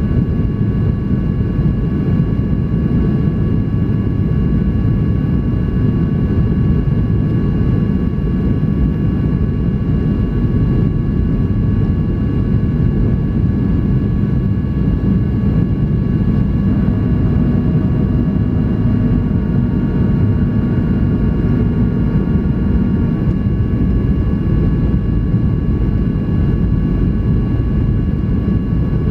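Cabin noise inside a Boeing 737-800 in flight: a steady, loud roar of its jet engines and airflow, with several steady high whining tones over it. A few more faint tones join briefly about two-thirds of the way through.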